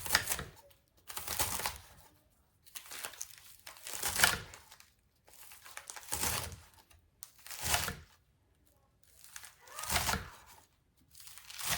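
A knife slicing through crisp romaine lettuce, in separate strokes about every second and a half as the lettuce is cut up small.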